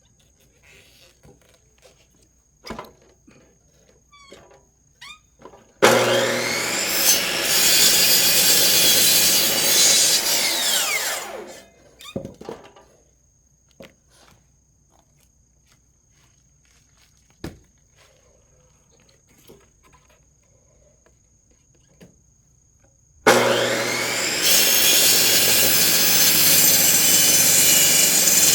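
Electric high-speed cutter (chop saw) with a toothed saw blade cutting through firewood, twice: a cut starting about six seconds in and lasting about five seconds, and a second cut starting near the end. Between the cuts it is quiet except for a few sharp knocks of wood being handled.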